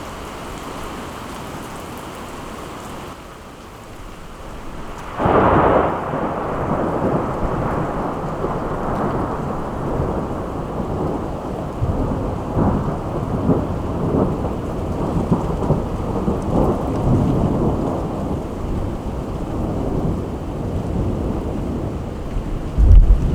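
Steady rain falling. About five seconds in, a sudden loud clap of thunder breaks into a long rolling rumble that goes on under the rain, and another low boom comes near the end.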